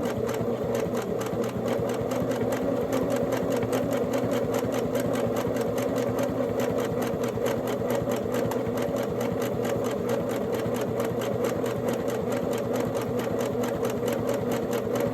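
Singer Genie 353 sewing machine running steadily at speed, its motor humming under a fast, even ticking of the needle strokes, while sewing a zigzag stitch.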